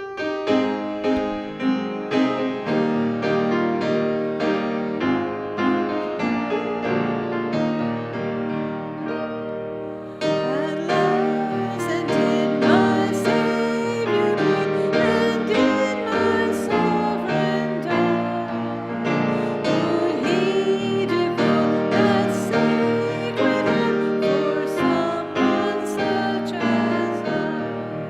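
Piano playing a hymn introduction, joined about ten seconds in by voices singing the hymn to the piano accompaniment.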